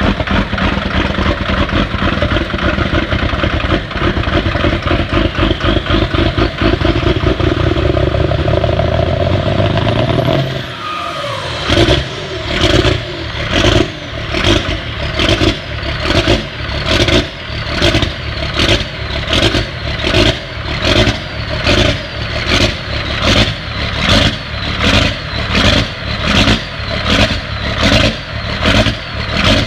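1995 Dodge Ram 2500's 12-valve Cummins 5.9-litre inline-six turbodiesel running, its pitch rising near ten seconds in with a falling whistle as it drops off. After that it settles into loud, evenly spaced pulses about once a second.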